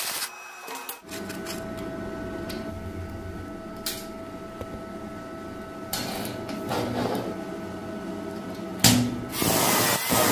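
A small motor running with a steady whirring tone, broken by scattered clicks and knocks. About a second before the end a louder, harsher rough noise starts.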